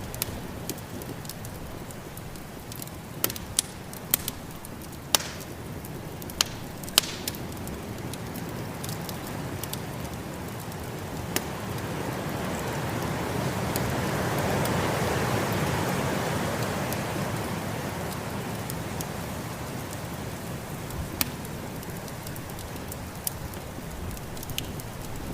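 Wood fire crackling with scattered sharp pops, over the steady rush of a blizzard's wind, which swells up to a peak about halfway through and dies back down.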